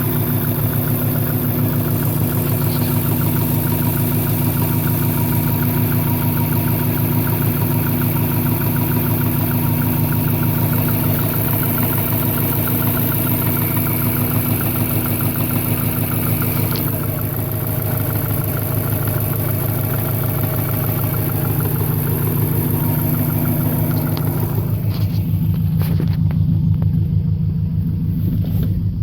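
1998 Subaru Impreza 2.5RS's EJ25 flat-four engine idling steadily with a fast, even knocking rhythm, which the owner suspects may be rod knock or piston slap. Near the end the sound turns duller as the high end drops away.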